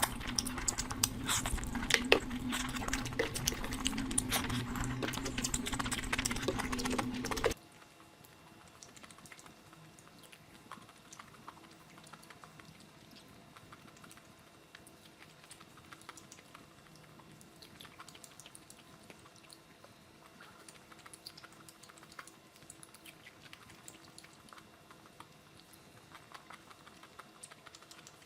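Eating sounds of curry and rice: wet squishing, smacking and chewing clicks over a steady electrical hum. About seven and a half seconds in, the sound cuts off abruptly to much fainter, scattered wet clicks of eating.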